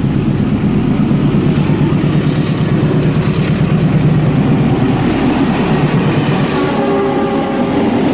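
A train running steadily along its track, a continuous rumble with a fast, even rattle.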